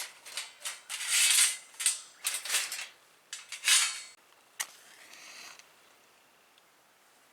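Irregular short bursts of rustling and scraping from camp gear being handled, with a sharp click a little past halfway, dying away to low background for the last second or two.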